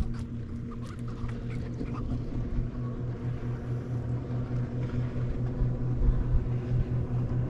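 Motorboat engine running steadily with a low hum, growing gradually louder as the boat comes closer.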